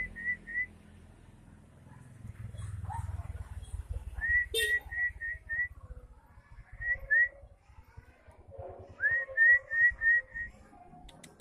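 White-rumped shama (murai batu) giving runs of short, rising whistled notes, four or five quick notes at a time with pauses between the runs.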